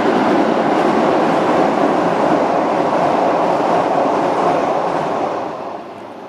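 Electric commuter train running across a river bridge, a steady rail rumble that fades away about six seconds in as the train passes.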